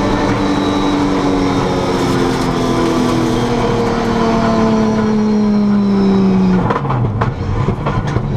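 Rally car engine heard from inside the cabin, its revs sinking slowly as the car eases off, then dropping sharply near the end to a low, uneven run with a few knocks and rattles.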